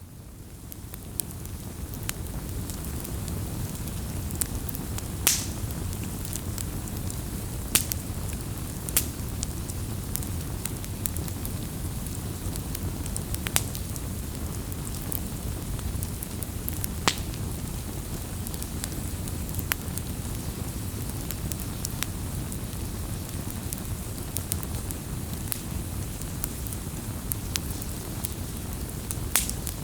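Wood fire crackling: a steady low rush of burning with scattered sharp pops every few seconds, fading in over the first couple of seconds.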